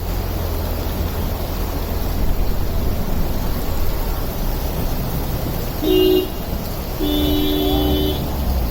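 Steady traffic noise with the wash of heavy rain and a low engine rumble. A vehicle horn honks briefly about six seconds in, then gives a longer honk of about a second.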